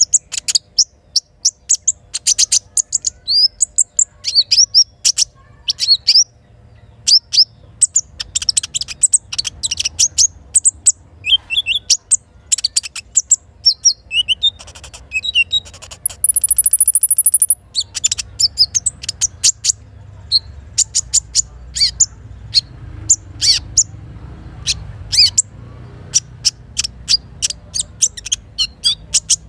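Little spiderhunter (sogok ontong) calling: rapid runs of sharp, high chirps in quick series, with a brief high, thin steady note about halfway through. A faint low rush of flowing river water lies underneath.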